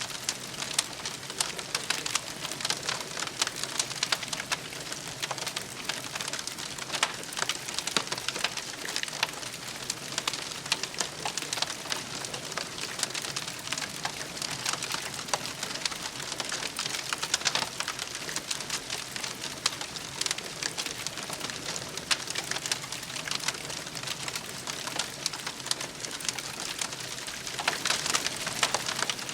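Wood campfire crackling steadily, with many small irregular snaps and pops over a soft hiss of burning.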